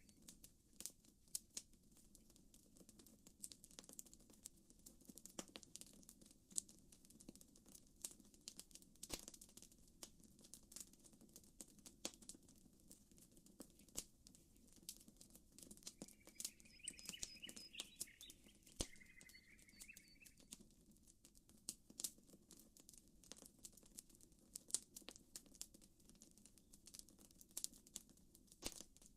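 Campfire crackling with scattered sharp pops, irregularly spaced, over a faint low steady hiss. A bird chirps in two short bursts about two-thirds of the way through.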